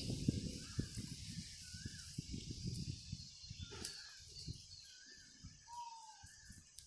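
Close rustling and rubbing noise with fine crackles, loudest over the first four seconds, then dying away. Small birds chirp repeatedly in the background over a steady high hiss.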